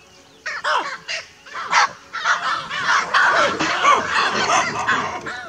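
A flock of birds calling. Harsh cawing calls start about half a second in and thicken into a dense, overlapping chorus from about two seconds in.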